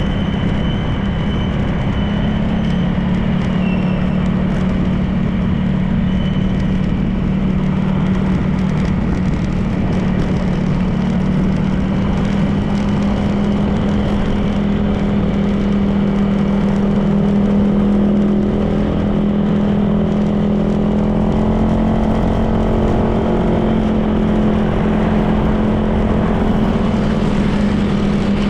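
Honda PCX 160 scooter's single-cylinder engine running steadily at cruising speed, with wind and road noise. The engine note grows fuller about two-thirds of the way through.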